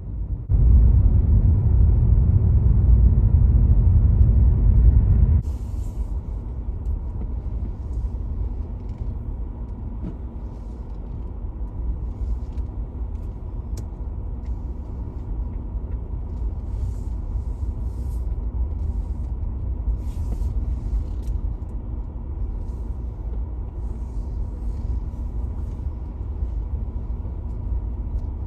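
Car on the move: a steady low rumble of road and engine noise. It is louder for the first few seconds and drops suddenly about five seconds in.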